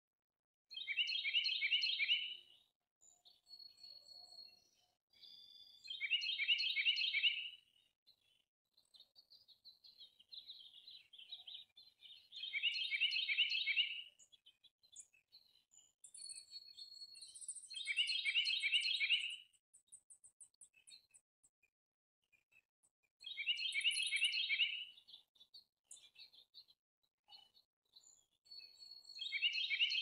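A bird singing or calling the same rapid, ringing phrase of repeated notes, each about a second and a half long, again and again about every five to six seconds. Softer, thinner high calls from other small birds come in between the phrases.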